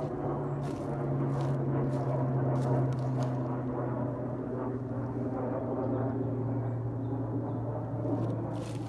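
Engine drone, steady and fairly loud, its pitch sinking slowly, with a few faint clicks.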